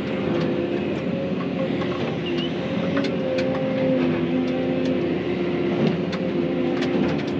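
Excavator running steadily under working load, with several steady engine and hydraulic tones that shift in pitch and strength as it moves, and scattered sharp clicks and cracks throughout.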